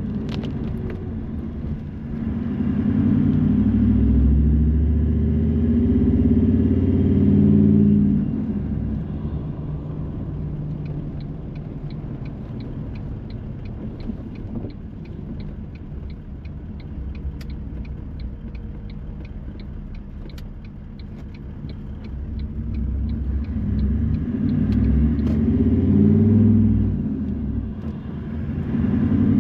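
Car driving: the engine rises in pitch as it accelerates, eases off to a quieter stretch, then accelerates again near the end. Through the quiet middle there is a regular ticking, about two ticks a second.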